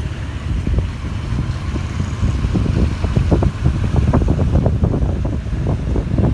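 Wind buffeting a phone's microphone on a moving motorcycle: an uneven low rumble with irregular gusts, which come more often from about halfway in, over the motorcycle running underneath.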